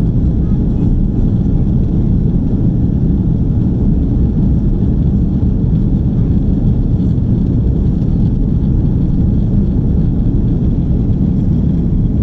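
Steady low cabin roar of an Airbus A330-300 in flight, engine and airflow noise heard from an economy seat, even and unchanging.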